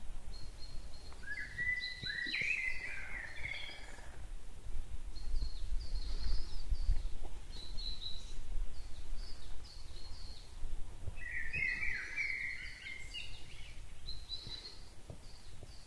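Woodland birds singing: a steady run of short, high notes, with two louder, lower song phrases about a second and eleven seconds in, over a low rumble.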